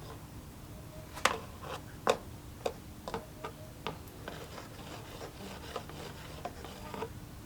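Sharp clicks and taps of tools and small carburetor parts being handled on a workbench. Two louder knocks come about a second and two seconds in, followed by lighter taps roughly every half second that fade out.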